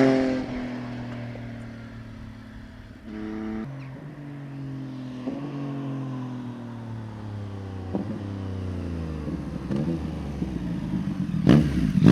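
Yamaha MT-09 RN69's 890 cc inline three-cylinder engine winding down off the throttle, its pitch falling slowly for several seconds. A short throttle blip comes about three seconds in, and sharp loud bursts near the end.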